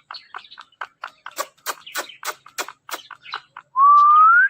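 Indian ringneck parrot making a quick run of short clicking chirps, then one loud whistle that rises in pitch near the end.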